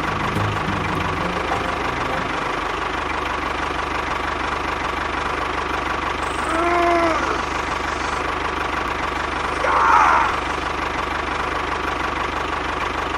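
A small machine running steadily with an even mechanical drone. Two short pitched calls rise and fall over it, one about halfway through and another a few seconds later.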